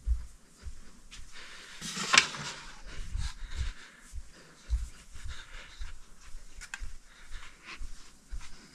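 Handling noise from fitting blades to a ceiling fan: scattered knocks, rustling and light thumps, with a sharp click about two seconds in and another near the end.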